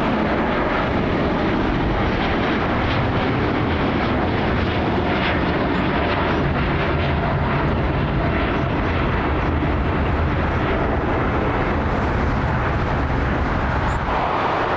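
Boeing 787 Dreamliner's jet engines running, a loud steady noise strongest in the low range, with a slight change in tone near the end.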